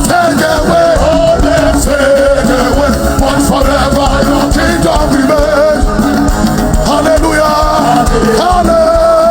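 Loud live worship music: a band with drums and keyboards playing while a congregation sings along.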